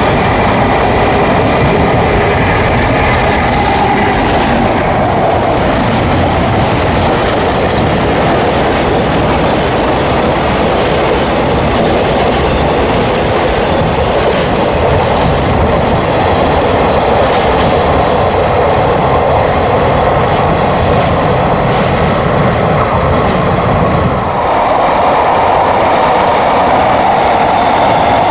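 JR Freight freight train hauled by an EF210 electric locomotive running through the station, its container flat wagons rolling past close by with a steady, loud rumble and clatter of wheels on rail. About 24 seconds in, the sound cuts to a second freight train hauled by an EF66 electric locomotive.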